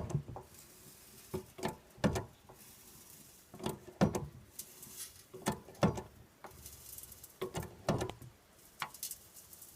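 Hand pump of a Hydraforce exhaust blow-out kit being worked, giving irregular clicks and knocks with each stroke as it pushes water pressure into a dented two-stroke exhaust to force the dent out.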